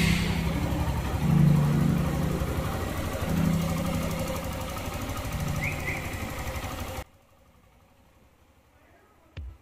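Suzuki Gixxer SF 150's single-cylinder engine running steadily after its timing chain, cam and rocker arms were replaced to cure a top-end (head) noise. The sound cuts off suddenly about seven seconds in.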